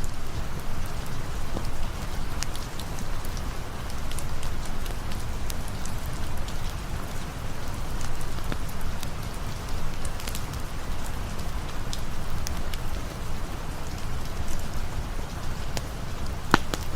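Steady rain falling, with a campfire crackling under it: scattered small pops, and one sharper pop about a second before the end.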